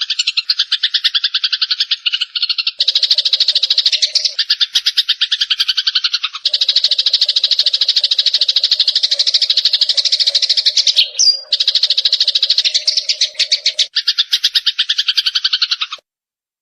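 Songbird song recording: a rapid, evenly pulsed chattering trill that switches abruptly between slightly different versions every few seconds, as spliced segments do. It has a brief whistled note about eleven seconds in and breaks off suddenly near the end.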